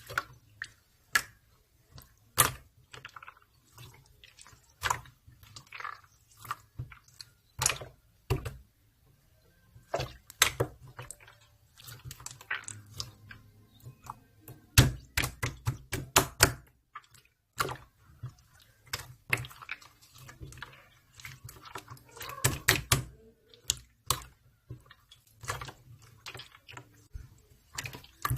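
Clear slime being squeezed, stretched and poked by hand, giving off irregular sticky clicks and pops, with quick runs of popping about a third of the way in, around the middle and again near the end.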